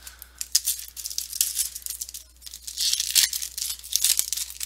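Crackling, crinkling and tearing of a foil trading-card pack wrapper, with cards being handled, in irregular sharp bursts.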